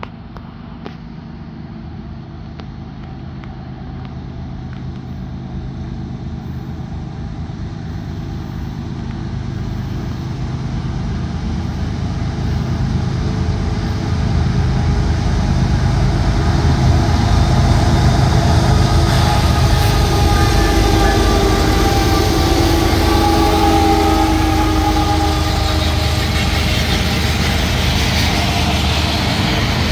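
BNSF freight train's diesel locomotives approaching and passing, their engine drone and wheel-on-rail rumble growing steadily louder over the first fifteen seconds or so, then holding loud as the locomotives go by and the stacked intermodal cars follow.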